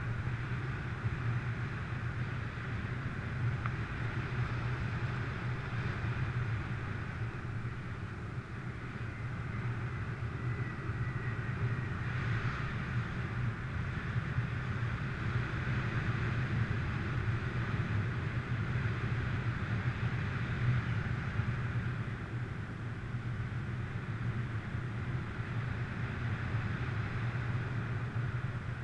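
Steady wind rushing past a GoPro's microphone in flight under a paraglider in strong wind: a constant low rumble with a hiss above it.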